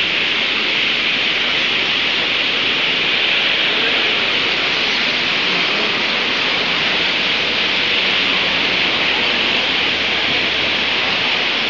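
Dense, steady din of a large flock of birds chattering together at their roost in the trees, blended into one continuous hiss-like chorus.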